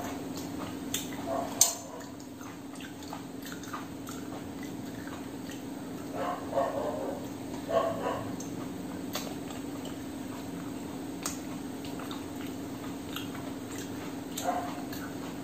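Eating sounds: a person chewing and smacking mouthfuls of rice and fried food eaten by hand, in short bursts, with a sharp click about one and a half seconds in, over a steady low hum.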